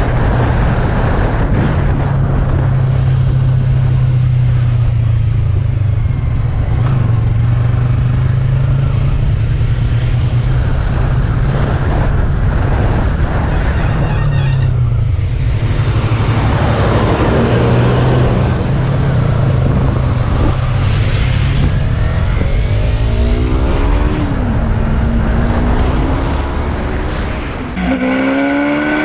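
Motorcycle engine running steadily under heavy wind rush, as heard from a rider's camera; in the last several seconds the engine revs up and down repeatedly through the gears.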